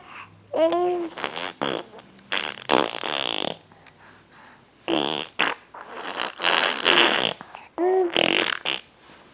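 Baby blowing raspberries, sputtering fart-like noises through the lips, in several bursts mixed with a few short high squeals.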